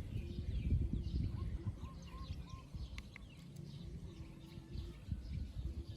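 Faint bird chirps over a low, uneven rumbling background noise.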